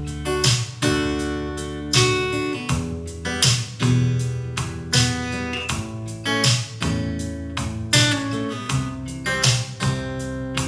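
Acoustic guitar music, a steady rhythm of plucked and strummed notes over held bass notes, played back through Yamaha NX-E400 speakers driven by a Yamaha RX-V767 AV receiver and picked up by a phone microphone.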